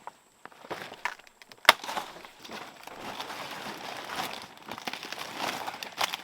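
Crunching and rustling, with one sharp knock about a second and a half in and another near the end.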